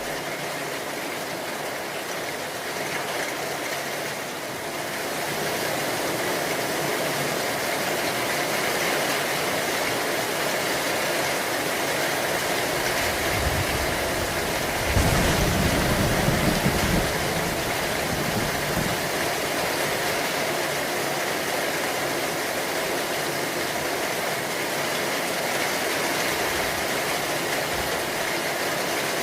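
Steady rain falling, growing a little louder about five seconds in, with a low rumble of thunder about halfway through that lasts a few seconds.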